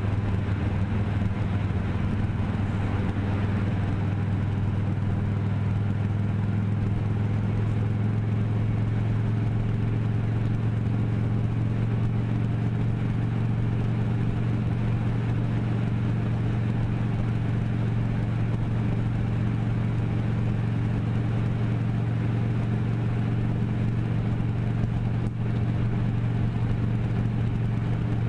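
A vehicle engine running with a steady, low hum whose pitch holds unchanged throughout.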